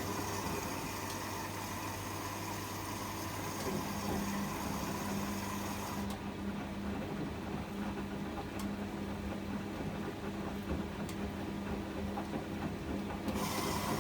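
Privileg 804 washing machine running through its wash cycle, with a steady motor hum and a tone that comes in about four seconds in. A high hiss stops about six seconds in and returns near the end.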